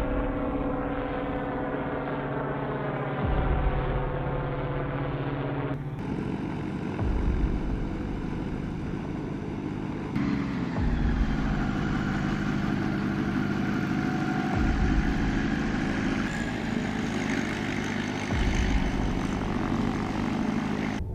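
Aircraft engine and rotor sound, a steady droning hum with several held tones, changing abruptly twice as the footage cuts. A deep low boom recurs about every four seconds beneath it.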